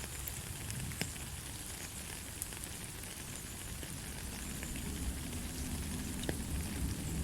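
Steady light rain: an even hiss of falling rain with scattered individual drops ticking on a surface, with a low rumble that swells slightly near the end.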